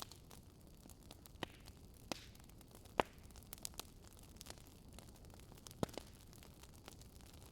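Wood fire crackling: scattered sharp pops and snaps at irregular intervals over a low, steady hiss, with the loudest pop about three seconds in.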